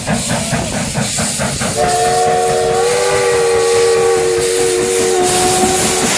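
Steam locomotive passing: rapid exhaust chuffs at about five a second, then a long blast on its chime whistle, several notes at once that shift slightly in pitch partway through, over the hiss of steam.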